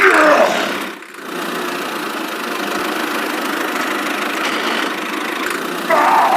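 An engine running steadily, a constant even hum, with a short voice-like call at the start and another near the end.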